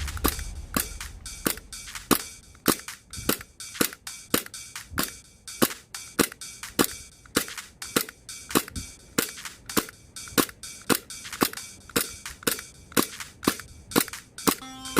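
WE Glock 17 Gen.5 gas blowback airsoft pistol dry-fired without BBs on green gas, its slide cycling for shot after shot at about two to three shots a second in a slightly uneven rhythm. Background music comes in near the end.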